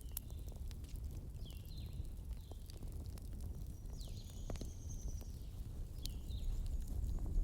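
Bonfire crackling over a low rumble, with scattered sharp pops. Short, high, falling chirps, like birdsong, come every second or so, with one longer high call near the middle.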